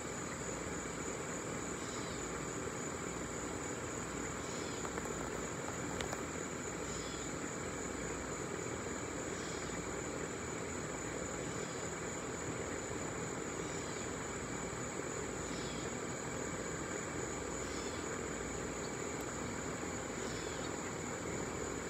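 Boeing 767-300 jet airliner passing overhead: a steady rumble of its twin turbofan engines, neither rising nor falling much. Over it runs a constant high insect whine, with a short chirp about every two seconds.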